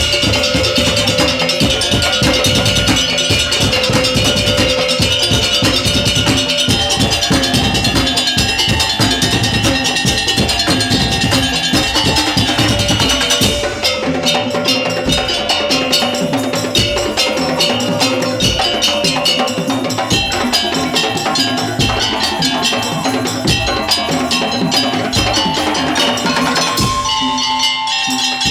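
Madurese daul (tong-tong) percussion ensemble playing fast drumming, clicking percussion and a sustained pitched melody line. About halfway through, the heavy low drums drop out, leaving lighter, rapid percussion over the melody.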